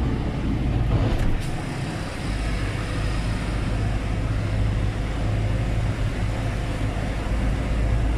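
Truck diesel engine running steadily under load, with a short hiss about a second in.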